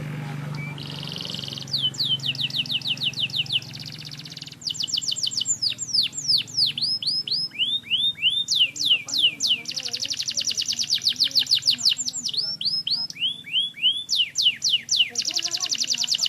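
Domestic canary singing: a short steady whistle, then fast trills of repeated down-slurred notes, phrase after phrase, some rapid and some slower.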